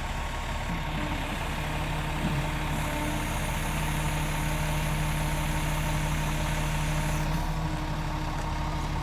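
Scania G450 truck's six-cylinder diesel engine idling steadily, with a steady hum that grows stronger for a few seconds in the middle.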